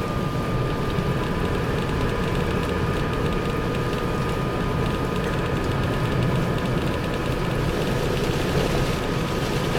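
In-cabin noise of a Mazda 6 driving on a snow-covered road on Blizzak snow tyres: a steady low rumble of tyres and engine, with a thin steady whine over it.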